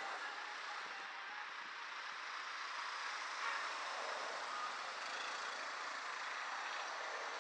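Steady rushing noise of riding a bicycle, wind and tyre noise on a bike-mounted action camera, even and unbroken.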